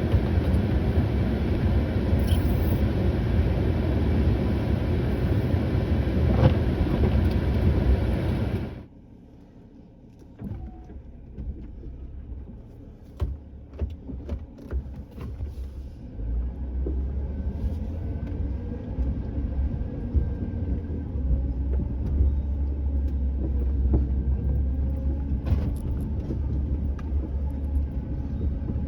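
A vehicle engine running with a low rumble. A loud rushing noise stops abruptly about nine seconds in. After it, a quieter rumble with scattered knocks builds back into a steady engine drone.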